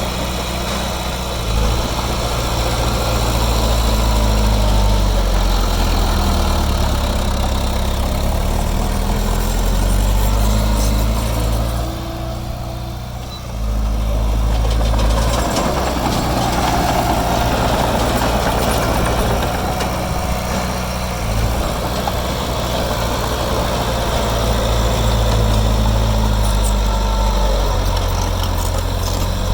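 Heavy diesel engine of earthmoving machinery running, its pitch and load rising and falling. The engine eases off about twelve seconds in, then picks up sharply again.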